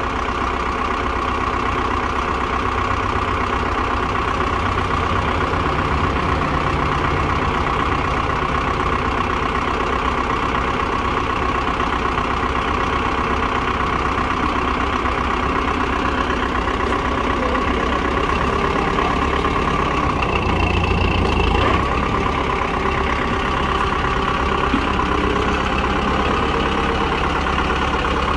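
Tractor diesel engine running steadily, swelling briefly a little over two-thirds of the way through.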